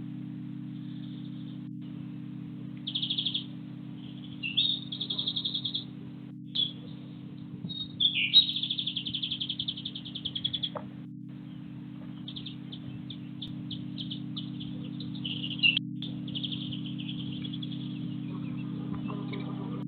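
Small garden birds chirping in several quick runs of high, rapidly repeated notes, over a steady low electrical-sounding hum.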